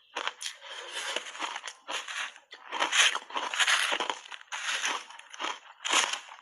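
Frozen shaved ice being bitten and chewed in big mouthfuls, a dense, irregular crunching with brief pauses between bites.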